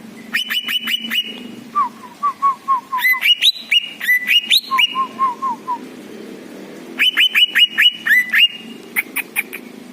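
Kept songbird singing hard in repeated bursts: quick runs of sharp, whistled notes, broken by strings of lower, downward-slurred notes. The phrases come three times, with a short extra flurry near the end.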